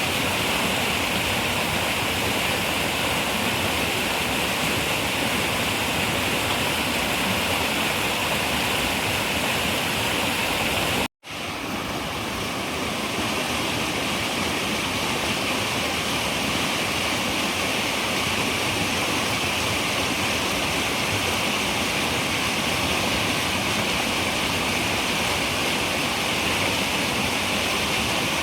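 Steady rushing of a running river. About eleven seconds in it cuts out abruptly for a split second, then fades back up.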